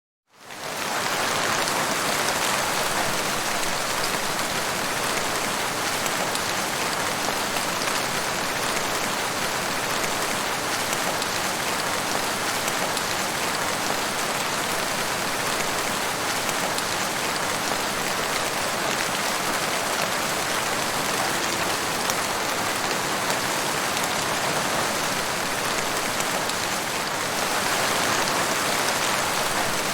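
Steady rain, a dense even patter of drops, fading in over the first half second and holding level throughout.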